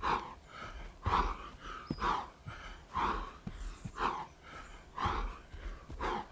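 A man breathing hard from exertion, with a sharp, forceful exhale about once a second in time with high-plank-to-low-plank reps.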